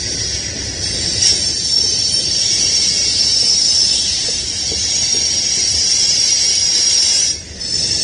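Freight train rolling past: steady wheel-and-rail rumble under a strong high hiss, dipping briefly near the end.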